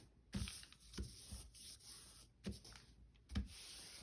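Hands rubbing and pressing along a fold of a flat brown paper bag, a soft paper rustle with a few light knocks against the work surface.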